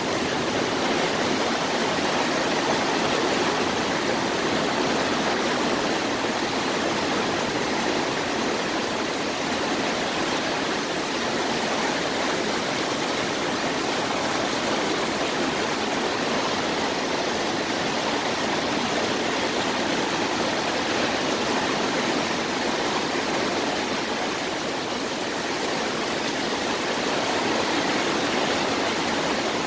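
Torrential thunderstorm rain pouring down steadily, a dense, even hiss with no thunder claps.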